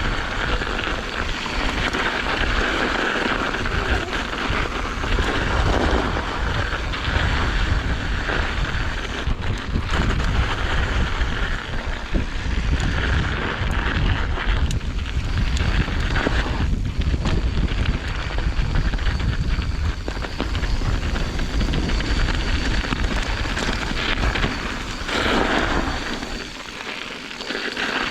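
Wind buffeting the microphone of a camera riding along on a mountain bike descent: a continuous rushing noise with a heavy low rumble, easing briefly near the end.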